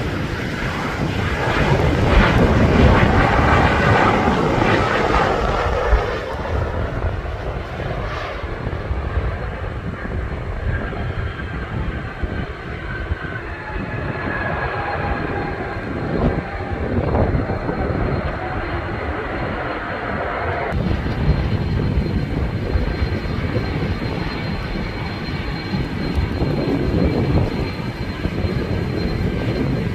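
Jet airliner engines running with a loud rumble and a faint whine. The sound is loudest in the first few seconds and changes abruptly about six seconds in and again about twenty-one seconds in.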